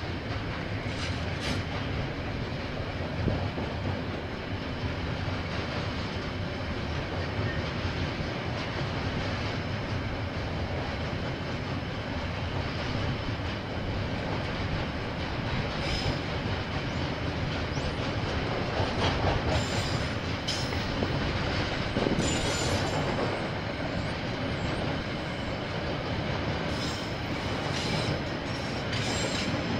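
Container freight train's wagons rolling past, a steady rumble with wheel clatter on the rails and brief high-pitched wheel squeals a few times, mostly in the second half.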